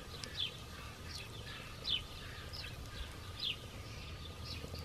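A bird chirping: short, high, falling notes repeated about every second and a half, over a faint low rumble.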